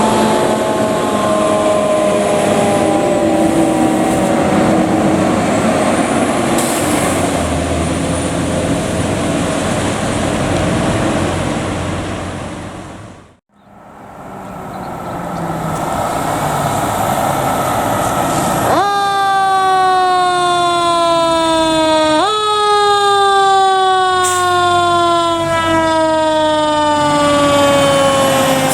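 Fire truck sirens with heavy engine and road noise. The siren's pitch slowly falls, breaks off about halfway through, and later twice shoots up sharply and winds slowly back down.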